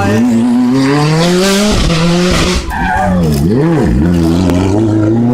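Rally car engine revving hard, its pitch climbing and falling with gear changes, with two quick dips and recoveries of revs about three and a half seconds in. Tyres squealing on the stage.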